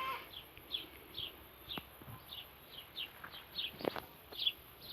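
A small bird repeating a short, falling chirp about twice a second, with a faint knock or two in the background.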